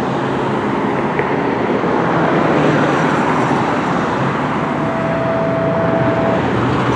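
Road traffic noise with a vehicle engine running steadily, and a brief steady tone lasting about two seconds near the end.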